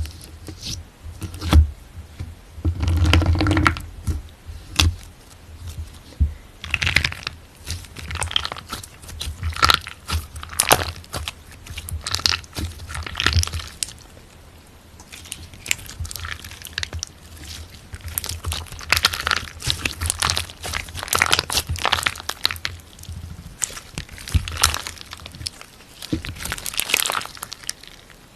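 Slime being squeezed and worked by hand, giving irregular crunching and crinkling crackles, louder for a second or so about three seconds in.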